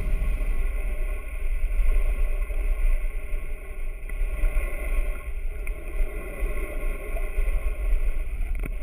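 Boat at sea with its engine running steadily: a low rumble with a steady hum, and wind on the microphone.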